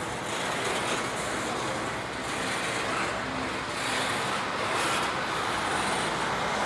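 Intermodal freight train's trailer-carrying flatcars rolling past on the rails: a steady rumble and rush of steel wheels on track.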